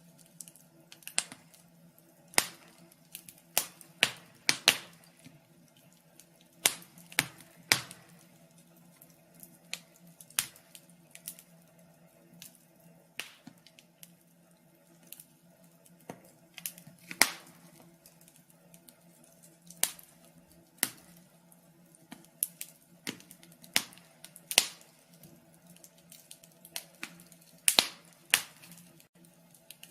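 Wood fire crackling in a fireplace: irregular sharp pops and snaps, sometimes two or three close together, over a faint steady low hum.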